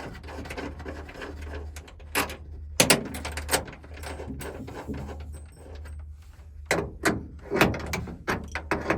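Clicks, knocks and metal clatter of hand tools working on a van's side door hardware, with several sharp knocks about two to three and a half seconds in and again around seven seconds in, over a steady low hum.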